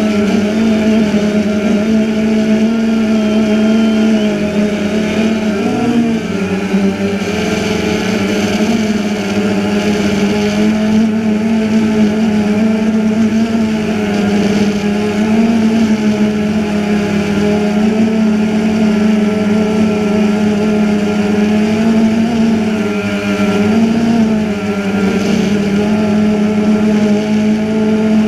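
DJI Phantom 2 quadcopter's motors and propellers buzzing steadily in flight, the pitch wavering slightly up and down as the throttle changes.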